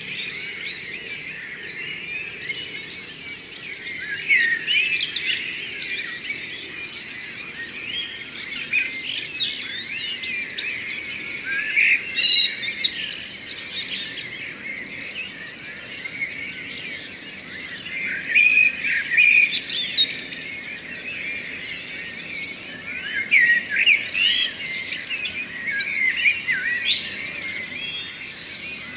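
Morning chorus of many songbirds singing at once: a dense, unbroken tangle of high chirps, twitters and trills, with louder phrases standing out every few seconds.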